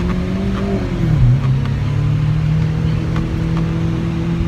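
Lamborghini Aventador SV's V12 engine humming steadily under way, heard from inside the cabin; its pitch rises slightly and then dips briefly about a second in before holding steady.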